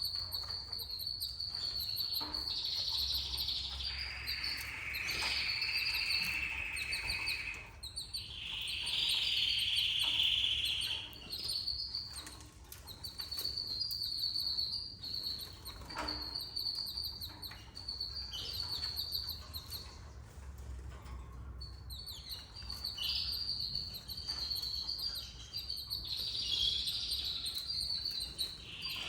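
Canaries chirping: a near-constant run of short, high repeated calls, broken by several stretches of rapid trilling lasting two to three seconds each.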